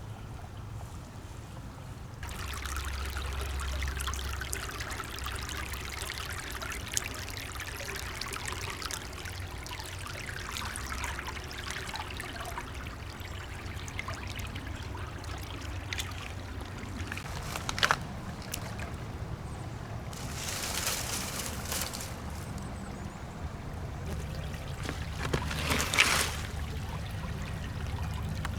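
Small stream trickling steadily, with a few sharp clicks and two brief louder surges of hiss in the last third.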